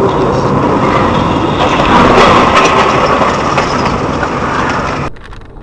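Loud vehicle engine and road noise, steady with scattered knocks, cutting off abruptly about five seconds in.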